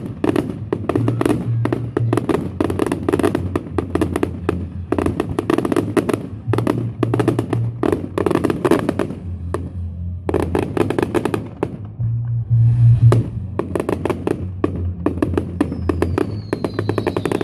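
Fireworks going off in rapid succession, a dense run of cracks and bangs with a brief lull about ten seconds in, over music with a steady bass line.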